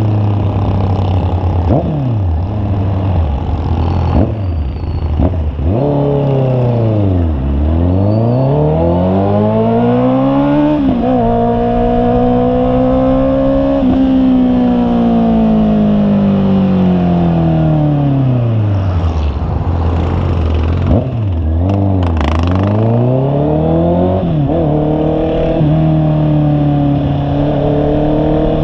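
Honda CB650R's inline-four engine under way, its revs repeatedly falling and climbing as the bike slows and accelerates, with a steadier stretch in the middle. The revs dip lowest around eight seconds in and again just past twenty seconds before climbing back up. Wind noise runs underneath.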